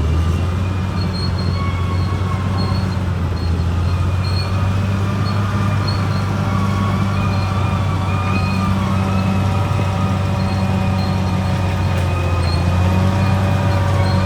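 Caterpillar bulldozer's diesel engine running steadily under load as a deep, constant drone. Above it are several whining tones that shift slightly in pitch, and a short high squeal that comes and goes.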